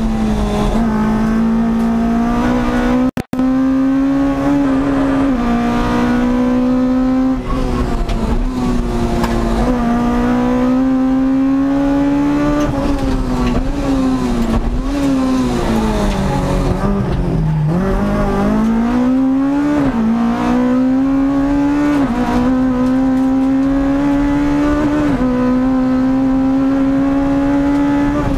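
Rally car's engine running hard at high revs, heard from inside the cabin. The pitch holds high with short dips as it changes gear, and about seventeen seconds in it falls away steeply before climbing back. The sound cuts out for an instant about three seconds in.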